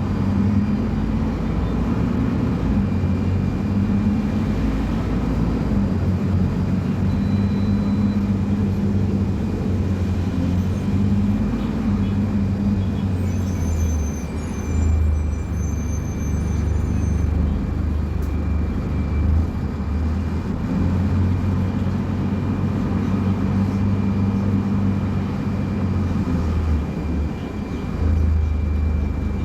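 Scania K250UB city bus's diesel engine running, its low note shifting up and down in pitch several times, with a faint steady high whine throughout.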